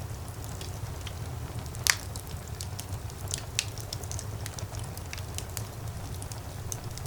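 Wood fire burning in a fireplace: a low steady rumble of flames with scattered crackles, and one loud sharp pop about two seconds in.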